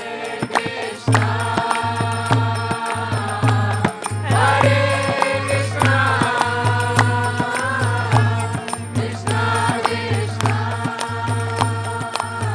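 Devotional kirtan: voices chanting together over a steady beating drum and clicking hand cymbals.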